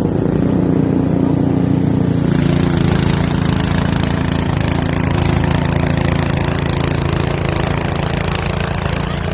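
Gas snowblower engine running steadily, with a rushing noise joining in about two seconds in.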